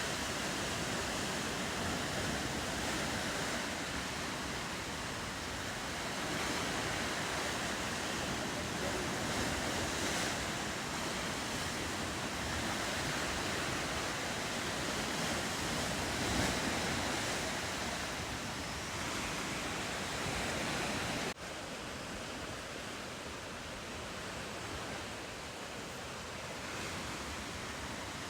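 Ocean waves and surf with wind, a steady rushing wash; about three quarters of the way through it drops suddenly to a slightly quieter wash.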